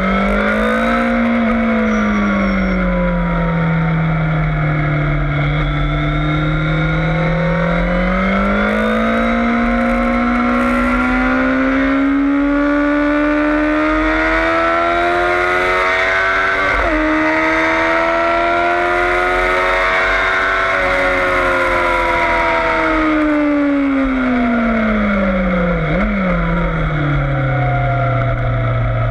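Yamaha FZS600 Fazer's inline-four engine at track pace, its revs climbing and falling as the bike accelerates and brakes. A quick upshift cuts the revs about two-thirds of the way through, and a short blip on a downshift comes near the end, after a long fall in revs under braking.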